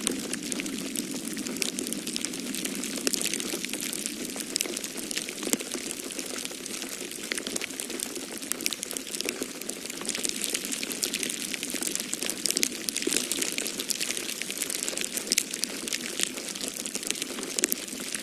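Wood fire in a fireplace crackling, a dense, irregular stream of small pops and snaps over a steady low rushing noise.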